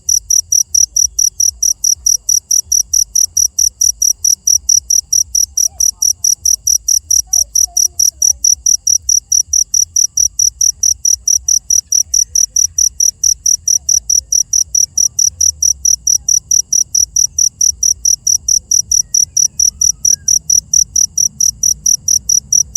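A cricket chirping loudly and steadily, one high-pitched chirp about three to four times a second without a break.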